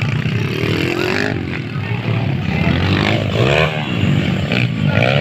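Motocross dirt-bike engines running and revving, the pitch sweeping up and down several times.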